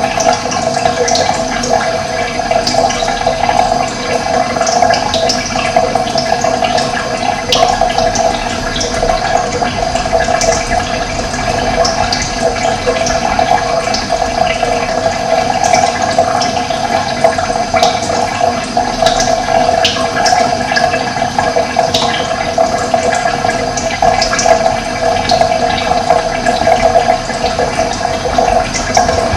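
Running water flowing steadily, with short high bird chirps scattered through it.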